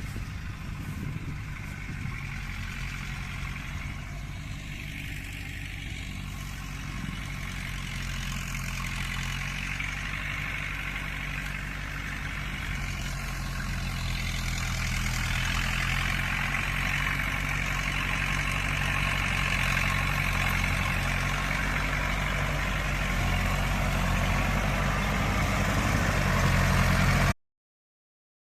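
Engine running steadily at a constant speed, with a rushing hiss that grows louder through the second half. The sound cuts off abruptly near the end.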